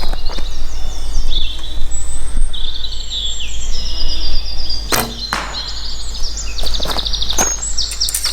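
Songbirds chirping and singing throughout, with a sharp knock about five seconds in from an arrow being shot from a bow.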